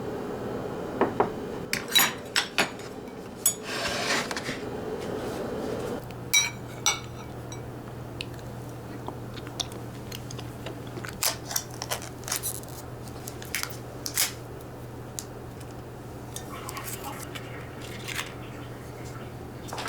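Kitchen clatter: dishes and metal utensils clinking and knocking at irregular moments, over a steady low hum.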